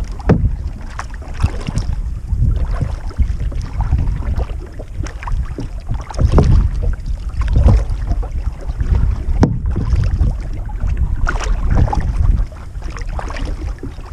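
Canoe paddling: paddle strokes and water splashing, under heavy wind buffeting the microphone.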